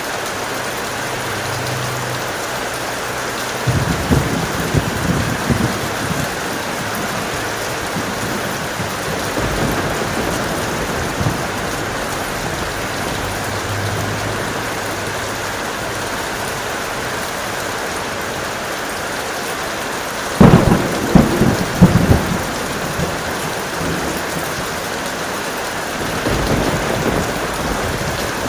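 Steady heavy rain, with thunder rumbling three times: a crackling rumble a few seconds in, a loud sharp thunderclap about two-thirds of the way through (the loudest moment), and a lower rumble near the end.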